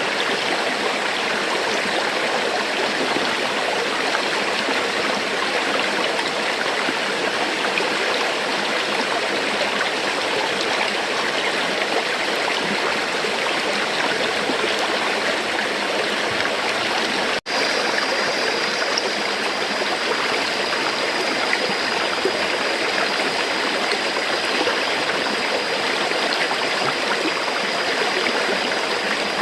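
River water flowing steadily over rocks, an even rushing and burbling. The sound cuts out for an instant a little past halfway, then carries on as before.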